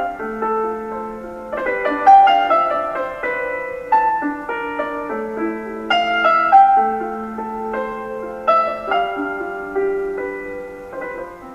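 Background piano music: a melody of struck notes over held lower notes.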